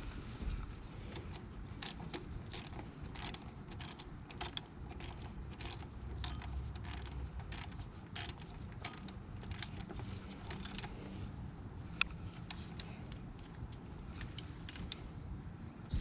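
Ratchet wrench clicking in short irregular runs, with light metal knocks from tools and parts, as the power steering pump's mounting bolts are worked on.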